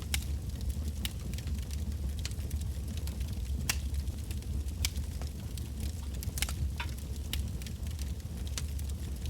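Wood campfire burning: a steady low rumble of flames with scattered sharp crackles and pops from the burning logs, one or two a second.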